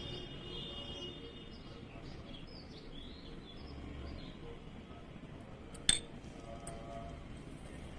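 Baby parrot making a run of short high chirps over the first few seconds, then a single sharp click about six seconds in.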